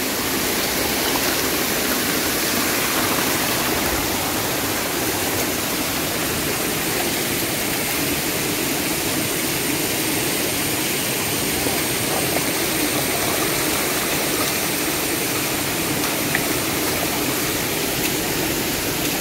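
Steady rushing of falling water from a waterfall, an even roar throughout.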